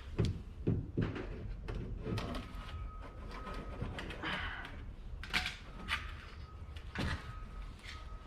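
Scattered clicks, knocks and light clatter of hand tools and parts being handled while the transmission cooler hose is moved over to the new radiator, with a faint steady high whine in the background at times.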